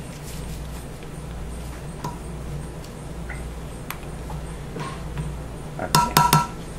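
A few faint ticks over a steady low hum, then near the end a quick run of sharp clinks with a brief ringing tone: utensils and containers knocking together while lotion is handled for pouring.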